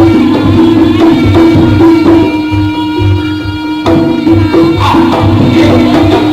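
Live jaranan music from a Javanese ensemble: a held melody line over steady drum beats. The drums drop out about two seconds in and come back with a sharp hit about four seconds in.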